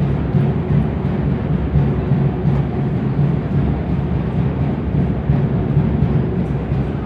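Deep drums beating for an Aztec dance, a dense low pounding.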